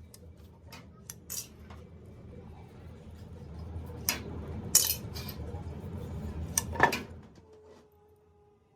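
Metal parts and tools clinking and clattering against each other, with a low rumbling noise building underneath that stops abruptly about seven and a half seconds in.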